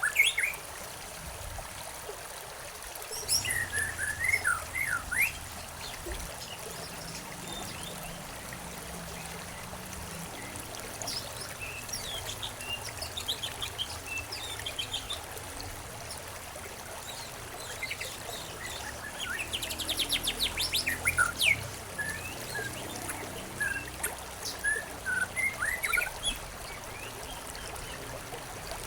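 Songbirds chirping and calling in scattered bursts, with one rapid trill about two-thirds of the way through, over the steady trickle of a flowing stream.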